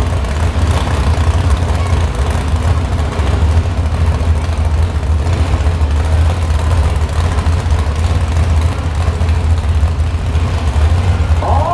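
Heavy tractor engine running steadily with a deep, constant low rumble, without revving up or down.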